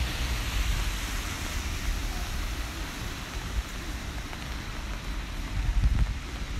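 Steady rain hiss on a city street with a low traffic rumble underneath, the rumble swelling briefly near the end.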